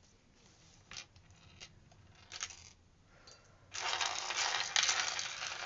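A few faint clicks of small beads being handled, then, about two-thirds of the way in, a sudden loud, continuous clatter of many small hard beads rattling against each other.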